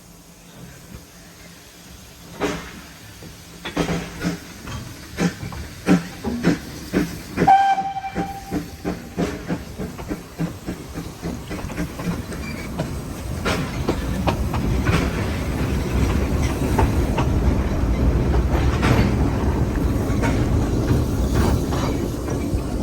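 Train on the rails: irregular clicks and knocks of wheels, a short whistle blast about eight seconds in, then the running noise grows steadily louder with a rhythmic clickety-clack from about halfway through.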